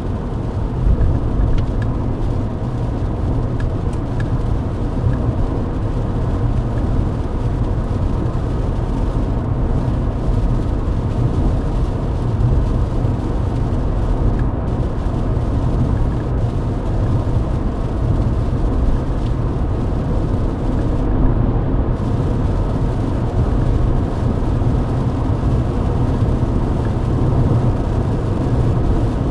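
Steady in-cabin road noise of a Mercedes-Benz W124 cruising on a wet highway: a constant low rumble of engine and tyres.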